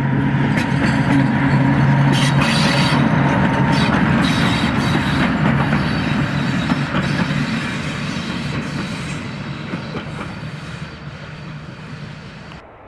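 A train passing close by, its wheels clicking over the rail joints over a steady low hum. The sound fades as it moves away, then cuts off abruptly near the end.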